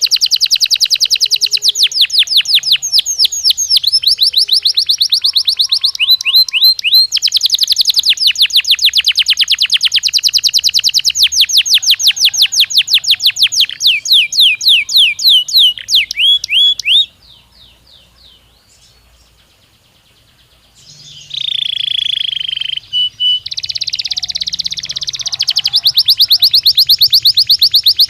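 Belgian canary song in fast rolling trills of sweeping chirps, about eight notes a second. It breaks off about 17 seconds in and resumes a few seconds later with a denser, steadier trill, then fast chirps again. This is a song stimulus recording meant to set a pet canary singing.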